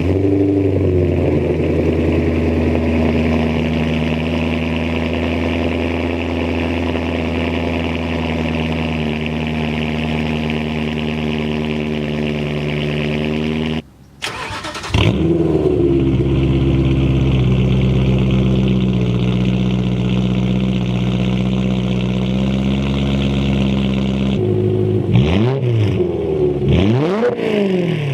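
BMW E92 M3's V8 running through an exhaust with the resonator and muffler removed but the catalytic converters kept. It settles from a raised speed to a steady idle, cuts out briefly about halfway, comes back and settles to idle again, then is revved in several quick throttle blips near the end.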